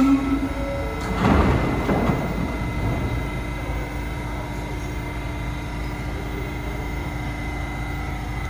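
New York City subway train in the station: a short rush of noise about a second in, then a steady hum with a faint, even whine.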